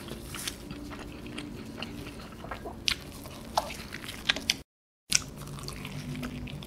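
Close-miked eating of a cheese-laden pizza slice: wet mouth clicks and chewing, with a few sharper bite sounds about three to four seconds in. A half-second gap of dead silence falls about two-thirds of the way through.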